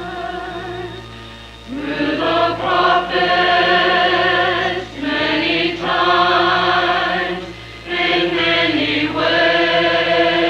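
Church chancel choir singing in parts, long held phrases that swell about two seconds in, with short breaks between phrases near the middle and again later, over a steady low hum.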